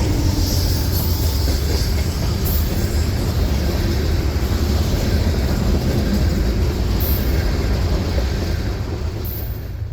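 Freight train rolling past close by: a loud, steady rail noise with a deep low end, easing slightly near the end.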